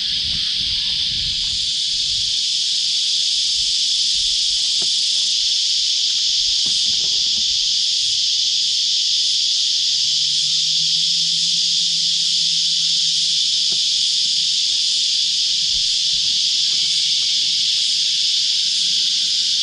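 A loud chorus of cicadas: a dense, steady, shrill drone that holds without a break.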